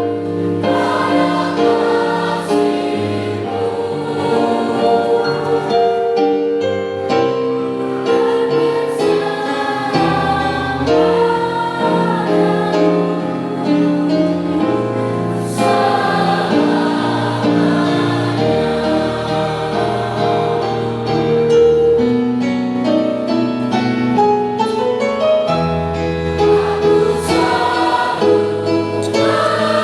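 Mixed choir of teenage voices singing a Christmas song in sustained chords, with a low accompaniment beneath.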